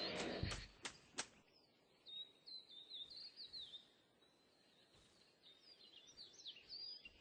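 A burst of noise with a few sharp clicks in the first second or so, then a small bird chirping in short high notes, again and again.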